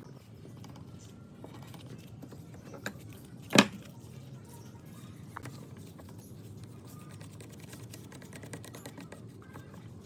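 Scattered light clicks and taps, with one sharp knock about three and a half seconds in, over a low steady hum.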